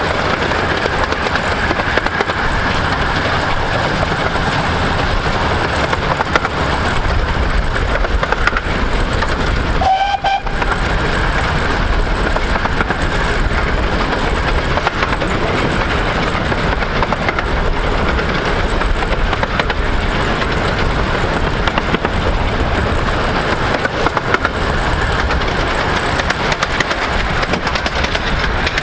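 A 15-inch-gauge steam train hauled by the RH&DR's 4-8-2 locomotive Hercules, running steadily along the line with a continuous rolling clatter. A short whistle note sounds briefly about ten seconds in.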